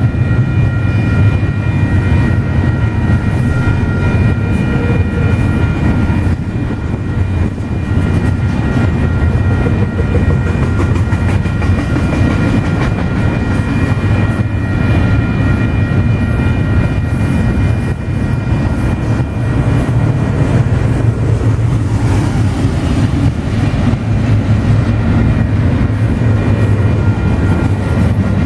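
Freight train rolling past: a steady, loud rumble of wheels on rail, with steady high ringing tones over it that fade in the last few seconds.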